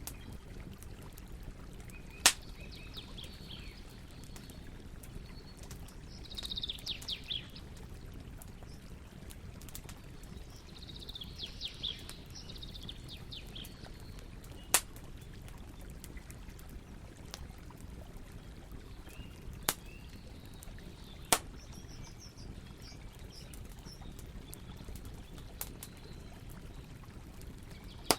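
Campfire burning with a steady low rush, broken by about five sharp wood pops. Small birds chirp in short runs of high calls several times in the background.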